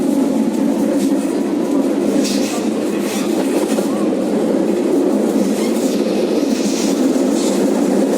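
Tram running along the track, heard from on board: a steady rumble of wheels and traction gear, a little louder in the first second, with a few brief faint hisses.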